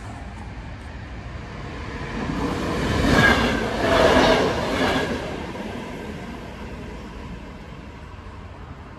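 Dutch Mat'64 electric multiple unit passing over the level crossing. It grows louder, is loudest about three to five seconds in, then fades as it runs away.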